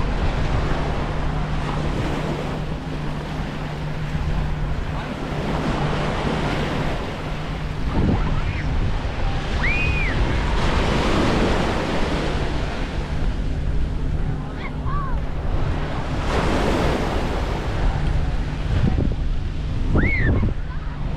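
Small waves breaking and washing up on a beach, with wind buffeting the microphone. Three short high calls rise and fall, about halfway through, a few seconds later, and near the end.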